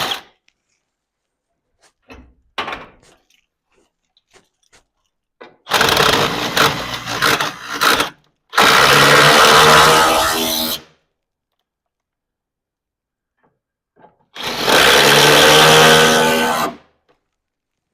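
A handheld power tool run in three bursts of about two seconds each, the first choppy and stop-start, the other two steady, with a few light knocks before them.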